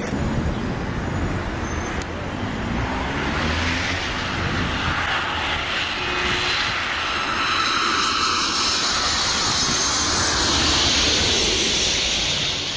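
Low-flying jet aircraft passing, a steady engine rush that builds slowly and is loudest near the end.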